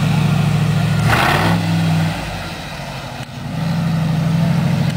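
Big monster-truck engine running with a steady pulsing beat, a short hissing rush a little over a second in. The engine then falls away for about a second and a half and picks back up.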